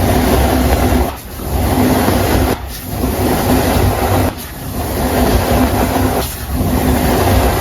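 Coloured baking soda powder being pressed and crushed close to the microphone: a dense, rumbling crunch in about five long strokes, each ending in a brief pause.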